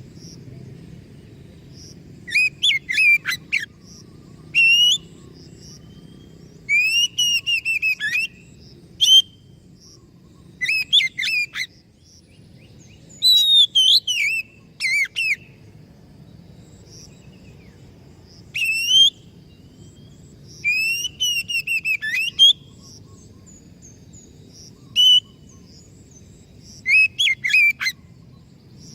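Oriental magpie-robin (kacer) singing in short, loud whistled phrases that come every one to three seconds, over a faint low hum.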